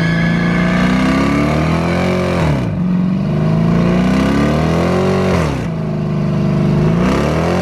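Car engine revving hard over and over, its pitch climbing for a couple of seconds and then dropping sharply, about three times.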